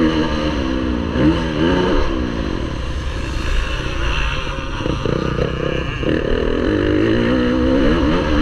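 Motocross bike engine racing, its pitch climbing and dropping again and again as the throttle is opened and rolled off through the track's sections.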